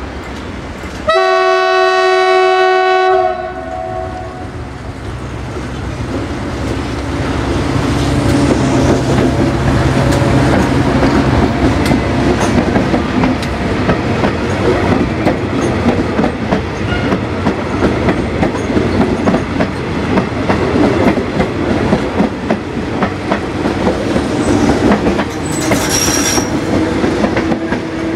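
Metrorail electric multiple-unit commuter train sounding its horn in one blast of about two seconds, about a second in, then running past with a steady wheel rumble and rhythmic clickety-clack over the rail joints. A brief high squeal near the end.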